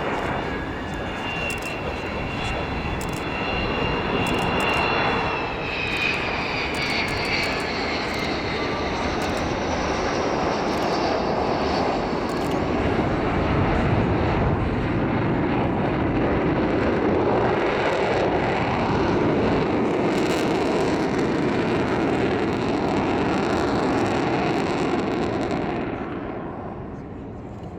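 Avro Vulcan's four Rolls-Royce Olympus turbojets roaring past in a display flypast. A high whine drops in pitch as the jet passes, and the sound fades away near the end.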